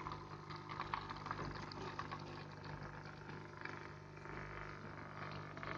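Arissto capsule coffee machine running as it brews, a steady low hum.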